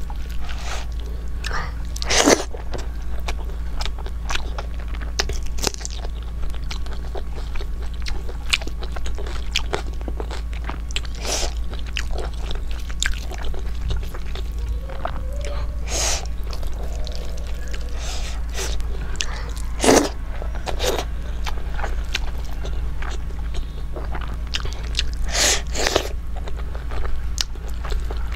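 Close-miked chewing and biting of rice, curry and vegetables eaten by hand, with wet mouth clicks and a few louder crunchy bites, over a steady low hum.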